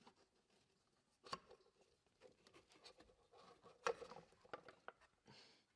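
Mostly near silence with faint, scattered clicks and knocks of hand tools being handled, two of them a little louder, about a second in and about four seconds in.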